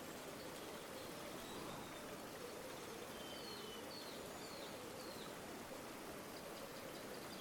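River water flowing in a steady, even rush, with a few faint, brief bird chirps about halfway through.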